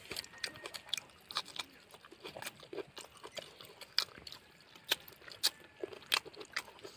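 A man biting into and chewing a piece of pot-cooked chicken with his hands: irregular sharp clicks and crunches of eating, two or three a second.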